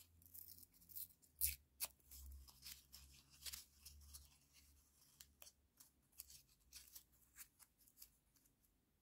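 Paper being worked into small pieces by hand: a series of quiet, crisp snips and crackles, a few louder ones in the first half, growing sparser toward the end.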